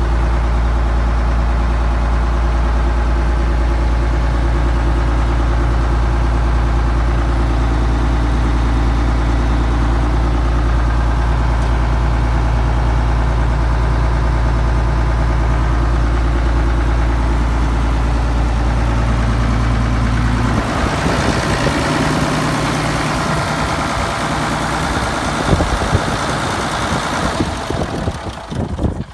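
1974 Case 970 tractor engine idling steadily with a deep, even hum. About two-thirds of the way through, the steady note breaks off into a rougher, hissier noise.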